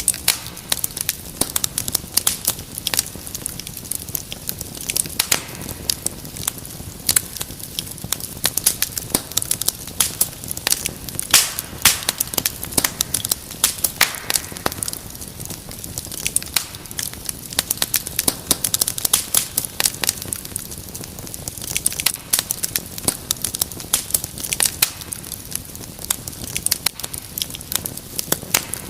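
Fireplace fire crackling: a dense, irregular run of sharp snaps and pops over a low, steady rumble of flames.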